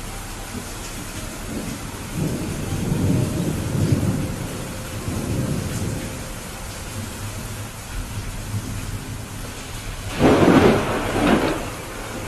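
Steady rain with thunder rumbling low a couple of seconds in, then a louder, sharper thunderclap about ten seconds in.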